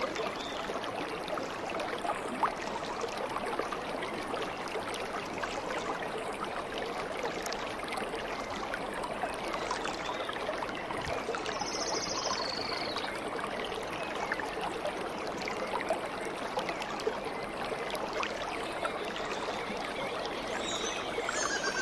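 Stream water babbling steadily, with one brief high bird trill about halfway through.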